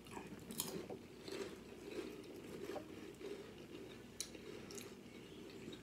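A person chewing a mouthful of tuna salad, with faint wet mouth clicks and smacks every second or so.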